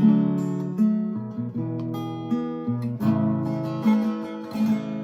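Acoustic guitar strumming chords slowly, a new chord struck about every second: the instrumental intro to a worship song.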